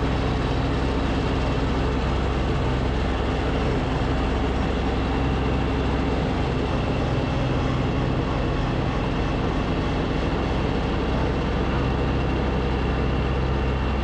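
Snowblower engine running steadily under load with an even, unchanging drone.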